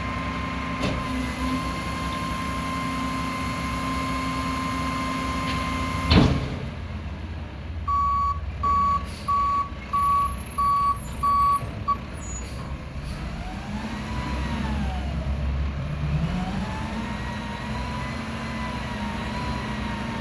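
Mack MRU front-loader garbage truck with a Heil body working a dumpster: the diesel engine runs with a steady whine, and a single sharp bang comes about six seconds in. Then the reversing alarm beeps six times, and the engine revs rise and fall twice before climbing again.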